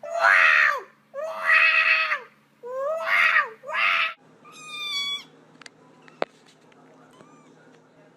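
A cat yowls four times in loud, drawn-out cries, each bending down in pitch at the end. About a second later comes a shorter, higher-pitched meow, then a sharp click and a faint meow.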